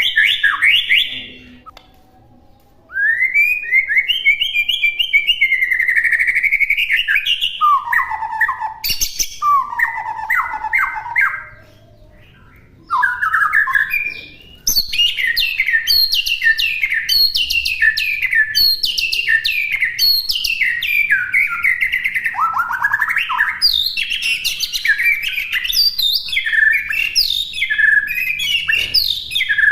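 White-rumped shama (murai batu) singing a varied masteran song. Clear whistled, gliding phrases are broken by two short pauses in the first half, then give way to a fast, unbroken run of rapid chattering notes.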